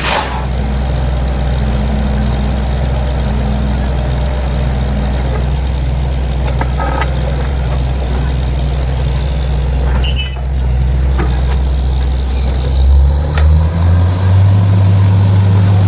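Borewell drilling rig's heavy diesel engine running steadily under load, with a few short hisses and clicks. About 13 seconds in, the engine note steps up and the engine runs higher and louder.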